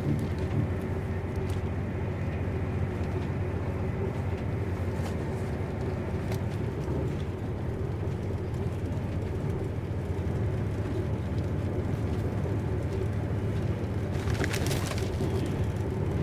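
Steady rumble of a passenger train in motion, heard from inside the carriage. A short crackle, like paper rustling, comes about fourteen seconds in.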